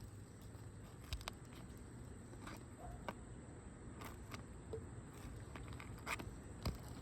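Faint scattered taps, clicks and scrapes from hands and roofing tools working three-tab asphalt shingles, about eight short sounds spread irregularly, over a low steady background hum.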